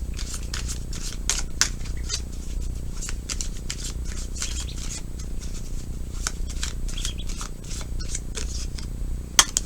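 Tarot cards being shuffled and handled: irregular crisp snaps and flicks of card stock, with a steady low hum underneath.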